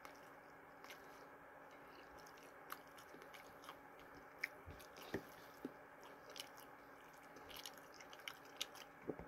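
A person chewing a mouthful of crispy breaded chicken: faint scattered crunches and mouth clicks, a few louder ones midway, over a low steady room hum.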